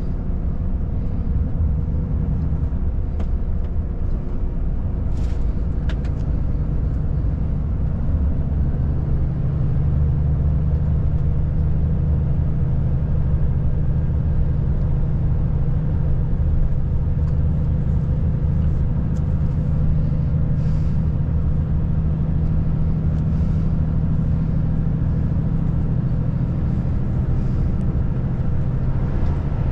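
Volvo FH540 truck's 13-litre inline-six diesel running steadily under way, a low drone over tyre and road noise. About nine seconds in, the engine note shifts and grows a little louder.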